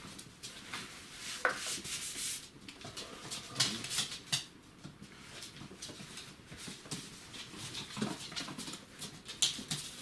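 Border collie puppies, about five weeks old, moving about: scattered small clicks and scuffles, with a brief puppy squeak about a second and a half in.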